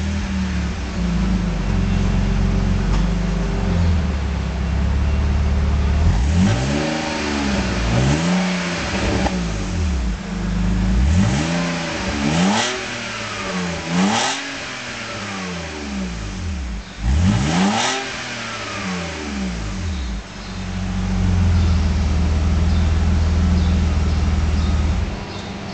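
BMW E46 323i's 2.5-litre M52TU inline-six heard through an aftermarket exhaust muffler: idling, then blipped in a run of quick revs that rise and fall back, then settling to idle again.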